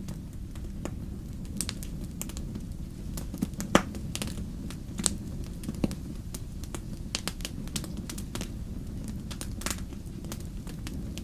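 Wood campfire crackling, with irregular sharp pops over a steady low rumble of the burning fire; one pop about four seconds in stands out as the loudest.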